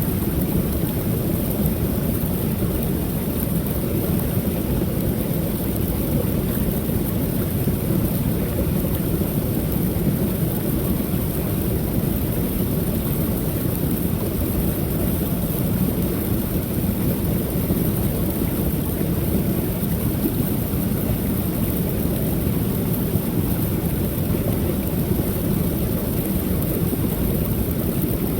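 Waterfall on a creek: water pouring and splashing in a steady, unbroken rush that is strongest in the low range.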